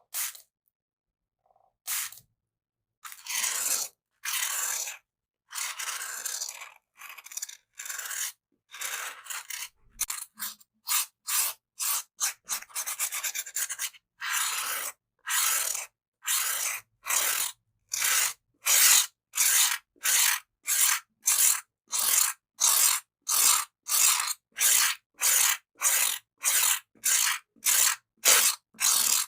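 Bamboo stick rubbed and scraped close against the microphone in repeated hissy strokes with silence between them. The strokes are slow and uneven at first, then settle into a steady rhythm of about one and a half a second from about halfway through.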